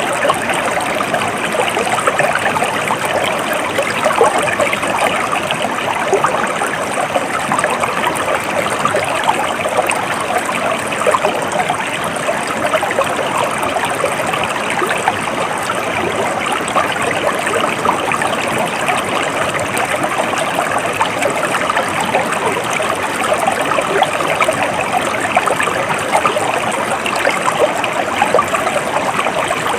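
Stream water flowing steadily, an even, continuous rush and babble with no breaks.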